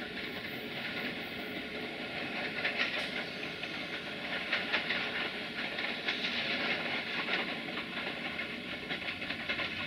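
Train rolling along the track: steady running noise with irregular clicks of wheels over rail joints, densest in the middle.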